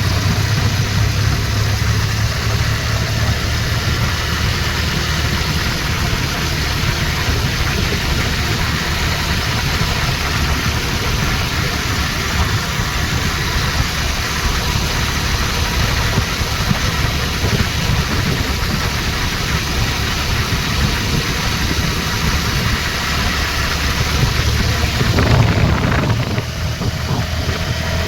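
Motorcycle engine running steadily during a ride, with a continuous wash of engine and road noise.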